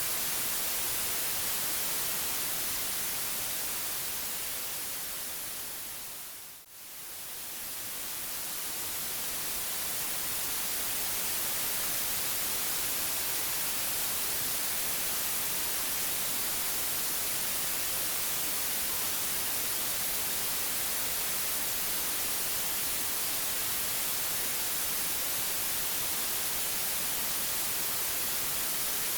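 Steady white noise hiss. About six and a half seconds in it fades down to a brief low point and then swells back up over a few seconds.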